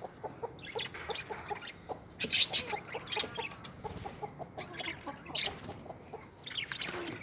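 Birds giving a rapid series of short clucking calls, with a few sharp, high squawks.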